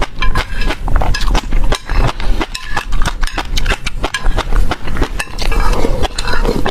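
Close-miked eating: food being chewed and crunched in the mouth, with many quick, irregular crunches.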